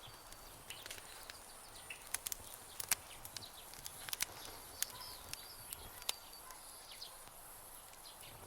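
Campfire crackling, with irregular sharp pops and snaps. Behind it runs a steady high-pitched insect drone, with occasional short chirps.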